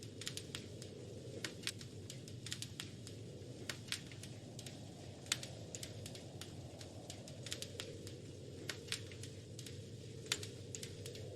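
Wood fire in a fireplace crackling: irregular sharp pops and snaps, several a second at times, over a steady low background noise.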